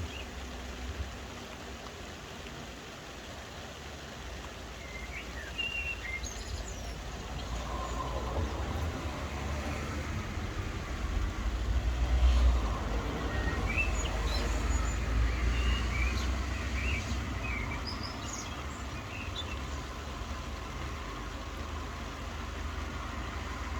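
Steady rain hiss with birds chirping now and then. A low rumble swells up through the middle and fades away again.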